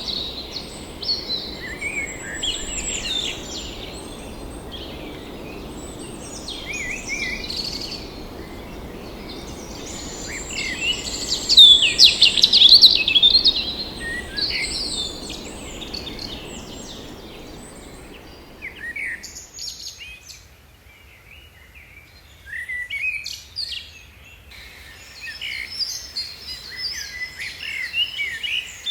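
Several wild forest birds calling and singing over one another with short chirps and whistled glides, loudest in a burst of song a little over ten seconds in. A low steady background noise underneath drops away abruptly about two-thirds of the way through.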